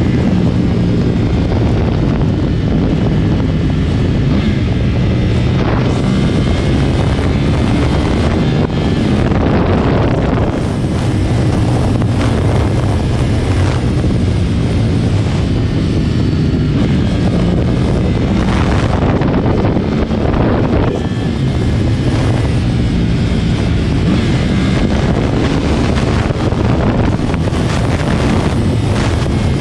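2010 Yamaha R1's crossplane inline-four engine running through a decat Akrapovic Y-pipe exhaust while riding, its revs rising and falling several times.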